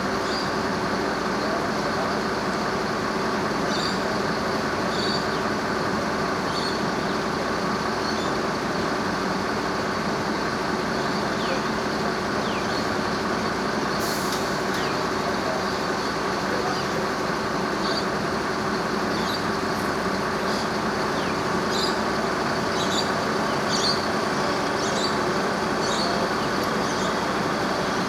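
A heavy vehicle's engine idling steadily, with short high chirps over it, mostly in the second half.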